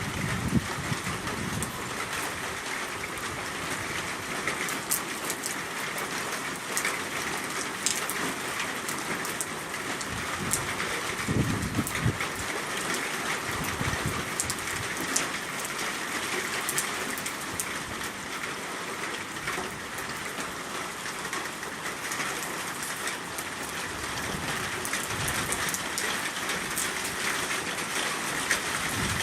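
Heavy rain falling steadily: a constant hiss with the sharp ticks of individual drops striking surfaces.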